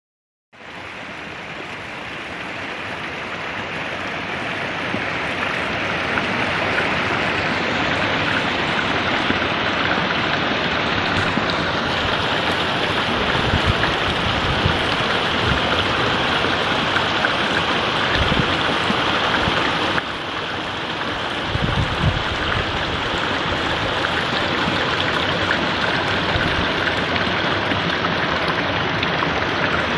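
Steady rush of flowing water, fading in over the first few seconds, with a slight drop in level about two-thirds of the way through.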